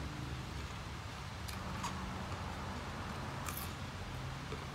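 Close-up chewing of crisp raw vegetables: a few short crunches about a second and a half in, just after, and again about three and a half seconds in, over a low steady hum.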